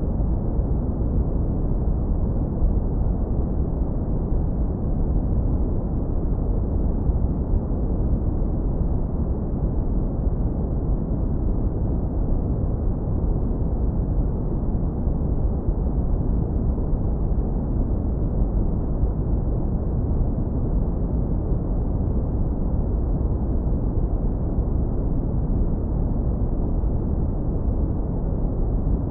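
Deep brown noise, heavily low-pass filtered so that only a warm, smooth low rumble remains; steady and continuous with no changes.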